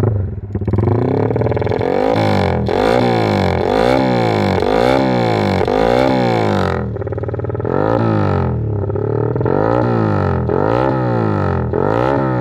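Motorcycle engine breathing through a Norifumi racing exhaust with a nearly open baffle, the throttle blipped over and over, about one and a half revs a second, with a short lull about seven seconds in. The exhaust note is loud and raspy.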